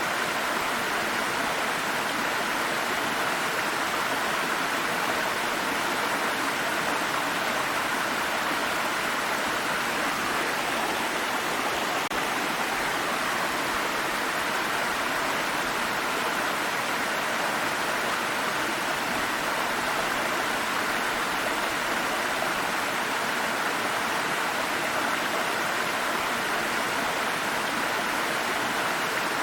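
A water stream flowing over rocks: a steady, even rushing of water with no changes.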